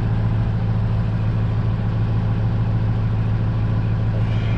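Steady low drone of a running motor, even and unchanging.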